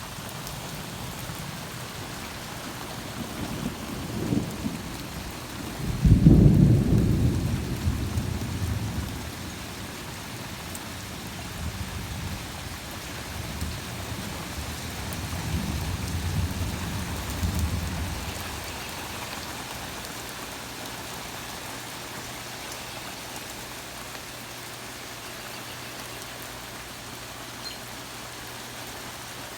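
Heavy rain falling steadily, with a short low rumble of thunder about four seconds in, then a sudden loud clap about six seconds in that rolls on in rumbles for about twelve seconds before the rain is left alone.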